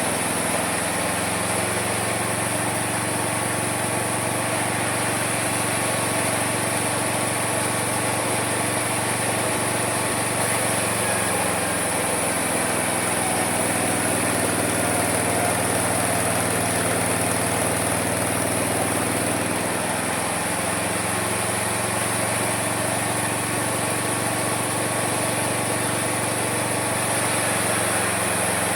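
Homemade mini sawmill running steadily while sawing wood. Its motor drone changes pitch a few times, around ten, twelve and twenty seconds in, as the load on the cut shifts. A high whine and a hiss of sawing run over it throughout.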